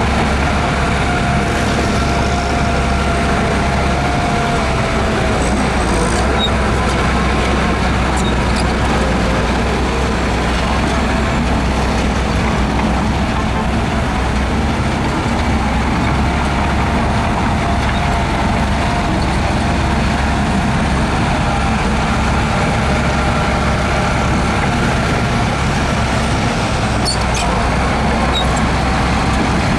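Heavy diesel earthmoving machinery running steadily under load, a continuous low engine drone with a few faint high clicks.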